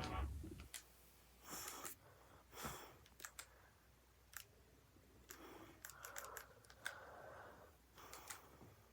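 Near silence, broken by a few faint, scattered clicks and brief soft rustles.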